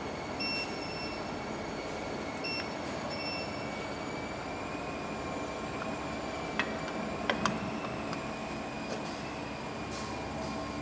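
Mini induction melting furnace running: a steady hum and rush with a thin, slightly wavering high whine. Three short beeps come in the first few seconds, and a few sharp clicks a little past the middle.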